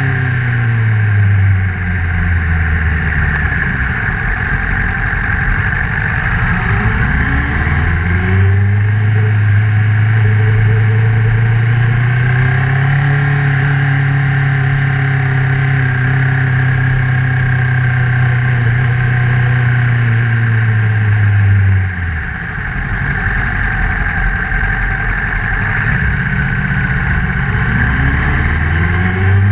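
Honda CBR1000RR inline-four motorcycle engine heard while riding: the engine note falls at first, climbs under acceleration, holds steady at cruising speed for a long stretch, drops sharply, then climbs again near the end.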